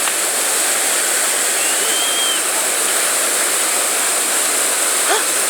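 Whitewater rapids on the Chattahoochee River, rushing water making a steady, even noise.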